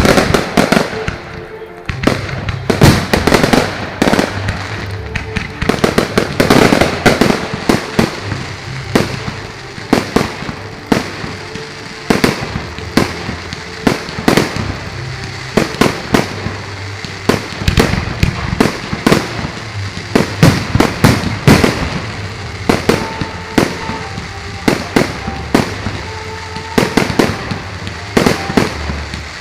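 Fireworks going off in a dense, irregular barrage of bangs and crackles, several a second at the busiest moments.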